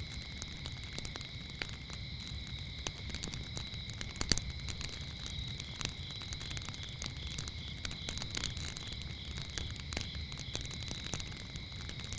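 Wood fire crackling with scattered pops, one sharper pop about four seconds in, over a steady high chirring of crickets.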